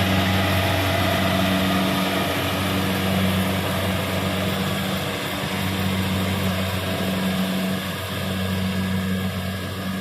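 Kubota rice combine harvester running steadily, a low engine hum with a broad mechanical rush over it.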